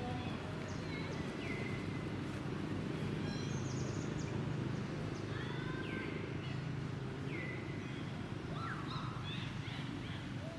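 Scattered short, high chirping calls, many falling in pitch, over a steady low rumble.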